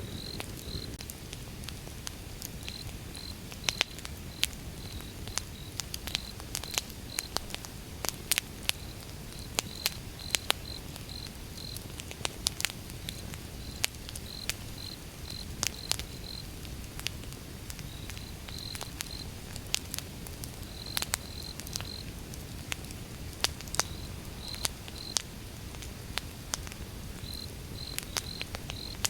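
Wood fire burning with sharp, irregular crackles and pops over a low steady rumble. Crickets chirp alongside in short runs of high pulses.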